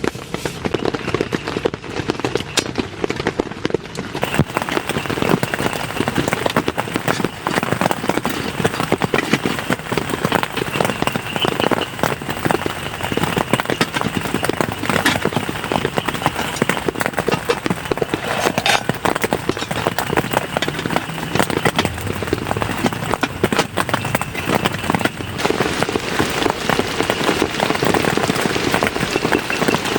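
Heavy rain falling, with many individual drops striking a surface. It thickens about four seconds in and then keeps on steadily.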